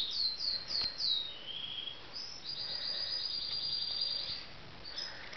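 A bird singing: a few short falling chirps in quick succession, a lower held note, then a rapid even trill lasting nearly two seconds.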